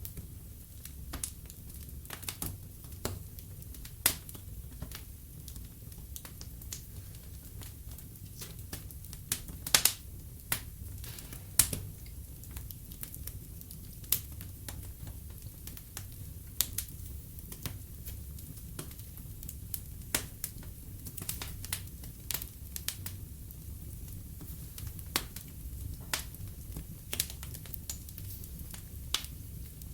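Burning logs in a fireplace crackling: irregular sharp pops and snaps over a low steady rumble of the fire, with a few louder pops about four, ten and eleven seconds in.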